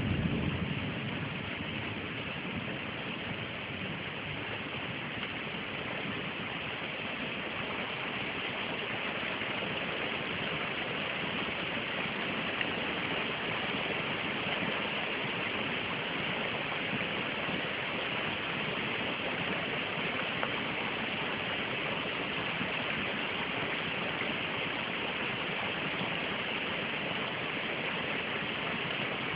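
Steady rain falling, an even hiss with no breaks. The tail of a thunder rumble dies away in the first second or so.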